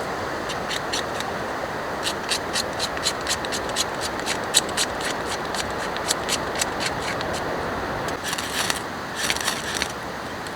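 Steady rain falling, with a run of sharp ticks and then two short scraping sounds near the end, the sound of something being handled close by.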